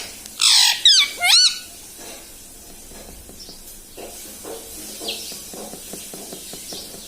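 Indian ringneck parrot giving a loud harsh squawk followed by a few quick rising-and-falling call notes, all within the first second and a half, then only faint, scattered chatter.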